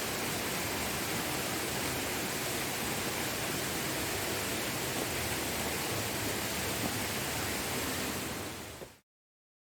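Waterfall rushing as a steady, even roar of falling water, fading out over the last second and ending about nine seconds in.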